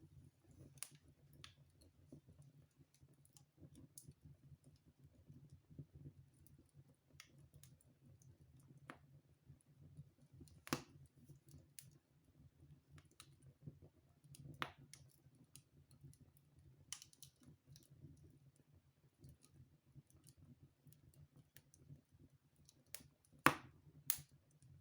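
Wood fire burning in a fireplace, crackling with sparse, irregular sharp pops from the logs, the loudest two close together near the end.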